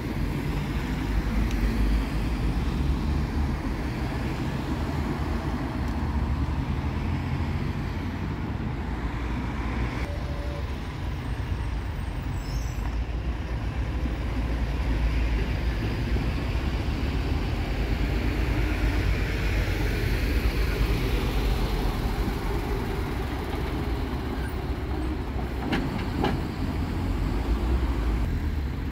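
Road traffic: vehicles driving past continuously, a steady low sound that swells and eases as they come and go.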